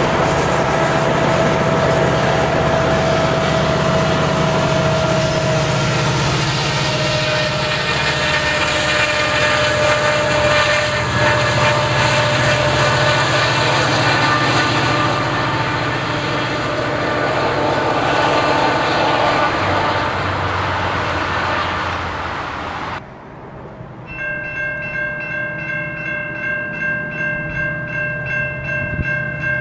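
GO Transit bilevel commuter train rolling past, with steady wheel and rail noise. After a sudden cut near the end, a train horn sounds a held multi-note chord as another train approaches.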